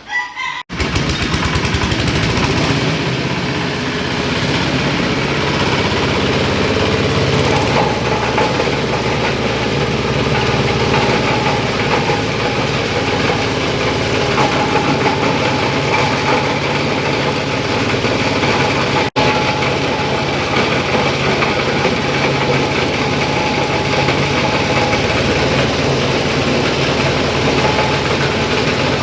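Fabric grinding machine with an 8 mm screen running steadily, a loud continuous machine drone that starts about half a second in and breaks off for an instant about 19 seconds in.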